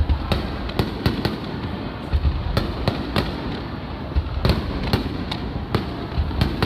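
Aerial fireworks shells bursting in quick, irregular succession: a steady run of sharp bangs, one to three a second, over a continuous low rumble from the display.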